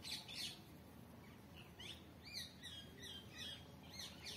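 Birds chirping: two sharp high calls at the start, then a run of short, falling chirps from about one and a half seconds in, and more sharp calls near the end.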